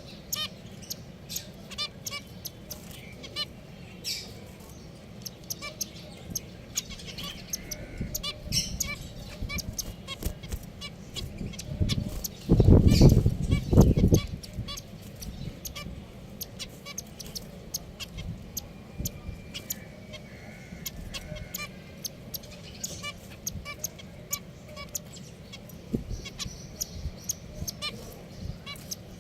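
Pet finches chirping and calling constantly in short, nasal, honking notes. About halfway through comes a loud low rumbling noise lasting about a second and a half.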